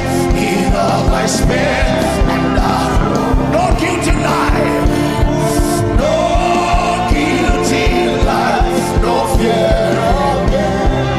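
Gospel song: a voice singing over held keyboard chords and a steady kick-drum beat.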